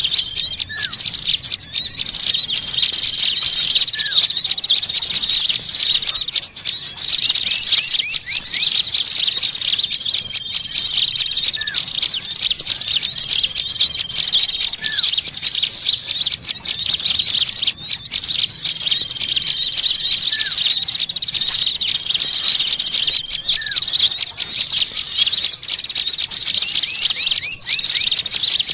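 Many small songbirds chattering and chirping noisily in a dense, continuous, high-pitched chorus, with a held whistled note now and then: an excited small-bird bird-lure (pikat) call meant to draw other small birds in.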